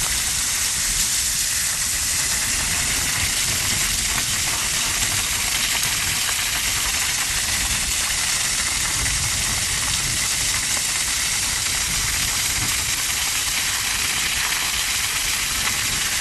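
Heavy rain pouring down steadily, a dense even hiss with a low rumble beneath it.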